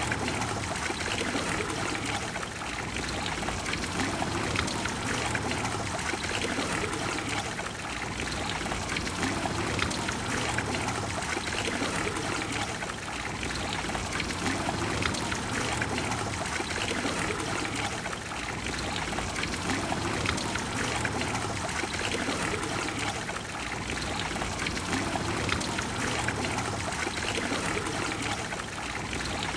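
Water of the Trevi Fountain pouring and splashing into its basin: a steady rush of falling water that eases and swells slightly every five seconds or so.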